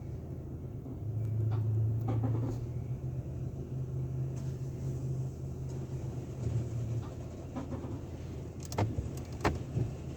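A steady low mechanical hum that swells briefly about a second in, with two sharp knocks near the end.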